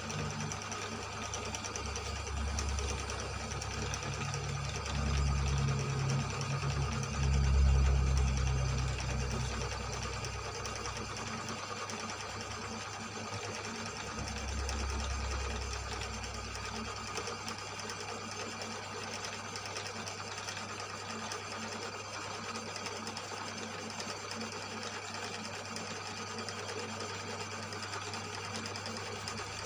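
Cylinder boring machine running steadily while cutting a motorcycle cylinder bore, with a deeper rumble in the first half that peaks about eight seconds in and fades out around seventeen seconds.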